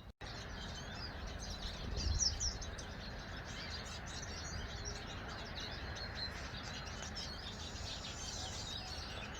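Small garden songbirds chirping and twittering, many short overlapping calls. A brief low thump about two seconds in.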